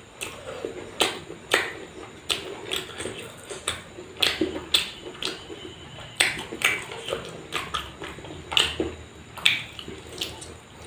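Close-miked eating sounds: wet chewing and smacking of the mouth, with irregular sharp smacks and clicks every second or so.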